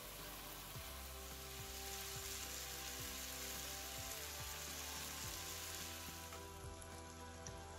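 Sliced onions, tomatoes and potatoes sizzling steadily as they fry in oil in a steel wok.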